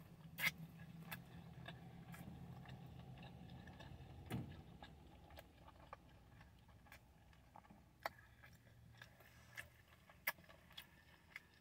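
Faint close-up chewing of a soft tortilla chicken wrap, with scattered small mouth clicks and smacks.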